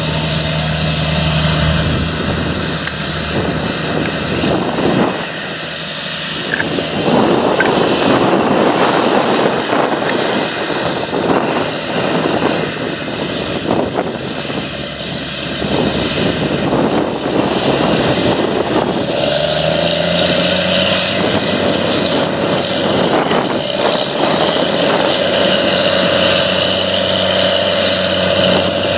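An engine running steadily, with stretches of rushing noise; its pitch steps up about two-thirds of the way through.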